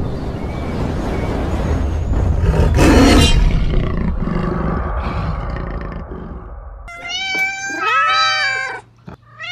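Logo intro sound effect: a low rumble with a whoosh about three seconds in, fading down. About seven seconds in, a domestic cat gives a long drawn-out meow that rises and then falls in pitch.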